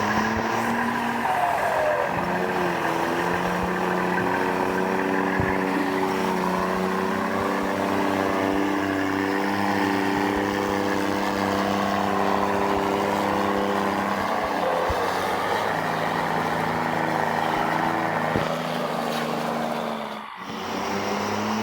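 Volvo engine running with a steady, droning rumble. Its pitch rises a little over the first few seconds and drops back about fifteen seconds in, with a brief dip in level near the end.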